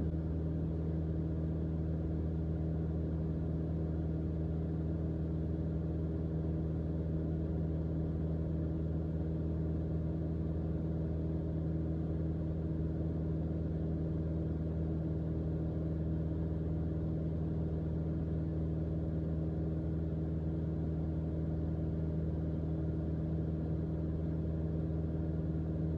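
Steady cockpit drone of a single-engine Mooney M20J's four-cylinder Lycoming engine and propeller in level cruise flight, a constant low hum with no change in pitch.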